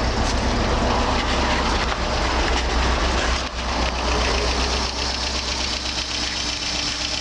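1968 Volvo car engine idling steadily, a low even running sound with a fine regular ticking.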